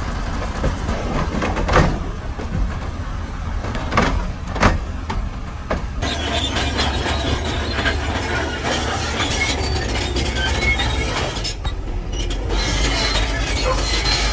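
Heavy diesel earthmoving machinery running with a steady low rumble, with a few loud clunks in the first five seconds. From about six seconds in, a dense crackling clatter of rock and stone tumbling sets in over the engine.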